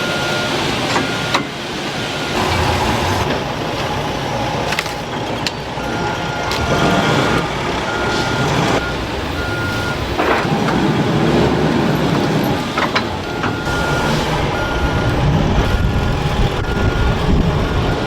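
Factory machinery running steadily with scattered clanks, under an electronic alarm beeping repeatedly on one high note, in runs of short beeps that stop and start.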